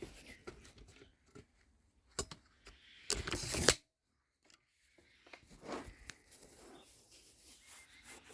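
Handling noise on the recording device: scattered clicks and rustling, a loud scraping rustle about three seconds in, then a second of dead silence where the recording drops out.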